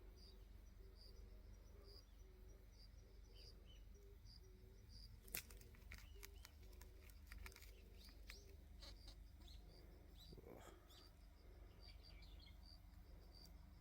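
Near silence with a faint, high chirp repeating evenly about every two-thirds of a second. A few small clicks and rustles come around the middle.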